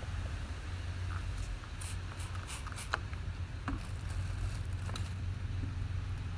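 Faint scattered clicks, taps and scratches of hand work on the filled van panel, likely poking relief holes in the gap filler, with one sharper tick about 3 seconds in. A steady low rumble runs underneath.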